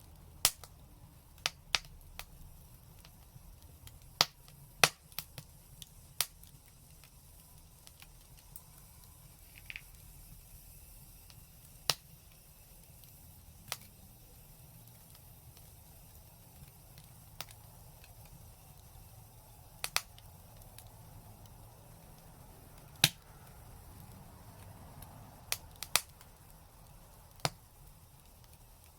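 Fire crackling: sharp, irregular pops every second or few seconds, now and then in quick pairs, over a faint low rumble.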